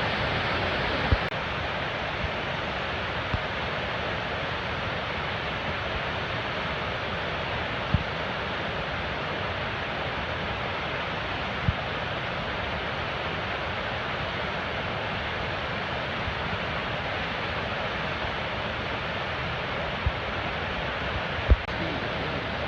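Gullfoss waterfall's steady rush of falling water, with a handful of brief low thumps scattered through it, the loudest near the end.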